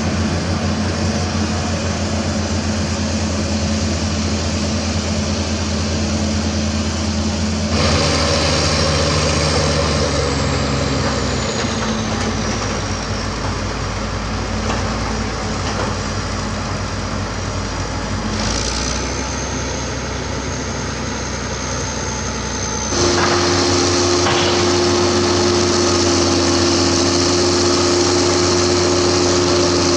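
Heavy crawler earthmover diesel engines running, with the engine note changing abruptly three times where the takes are cut together. A high whistle glides down early in the second take, and a steady high whistle holds for a few seconds before the last change.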